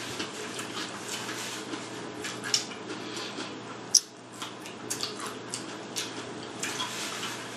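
Close-miked chewing of a mouthful of pani poori: a run of small, irregular mouth clicks and smacks, with a sharper click about four seconds in. A low steady hum runs underneath.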